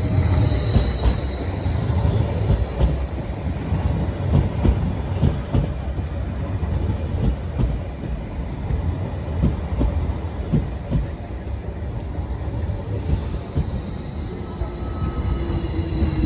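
A Greater Anglia Class 745 FLIRT electric train pulling into the platform: heavy rumble with many short wheel clicks and a high, steady squeal. A lower whine falls in pitch near the end as the train slows.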